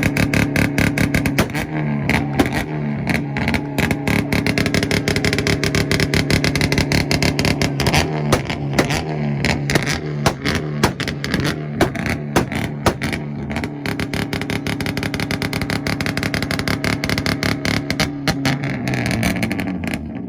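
Hyundai Veloster's turbocharged engine held on a two-step launch limiter: a loud, steady held rev peppered with rapid popping and cracking from the ignition cut. The note wavers in pitch in the first half, steadies again, and drops away at the very end.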